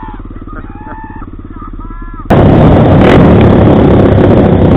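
Motorcycle engine running with an even, rapid pulse, heard fairly quietly with a few short whistling chirps over it. About halfway through it cuts suddenly to a much louder recording: a motorcycle riding with a loud, steady rush of noise over the engine.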